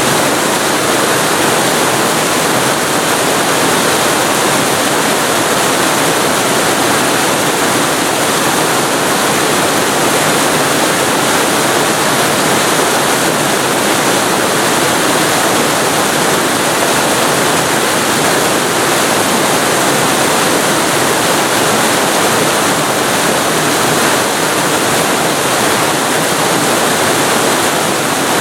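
Waterfall recorded up close: a loud, steady rush of falling water.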